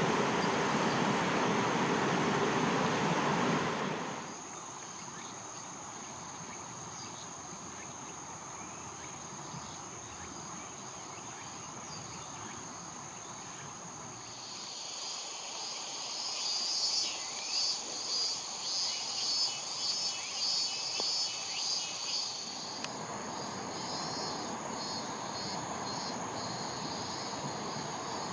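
Insects singing: steady high-pitched trilling throughout. A louder pulsed chirping song joins about halfway through and stops a few seconds before the end. A rushing noise covers the first four seconds, then cuts off.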